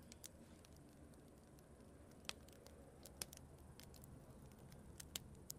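Campfire burning quietly, with a few scattered, irregular sharp pops from the wood.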